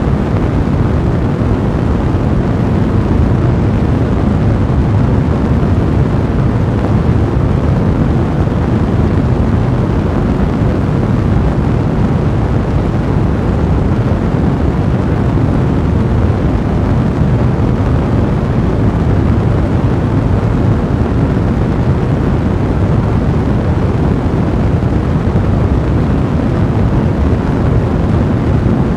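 Blazing fire with a steady, deep roar.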